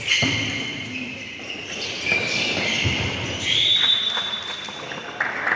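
Indoor volleyball play echoing in a gym hall: high squeaks, like shoes on the court floor, and a few thuds of the ball and feet.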